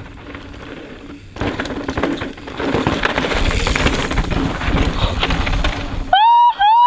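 Mountain bike rolling fast down a loose, rocky dirt trail: tyres crunching and the bike rattling over stones. Near the end come two short, loud rising whoops.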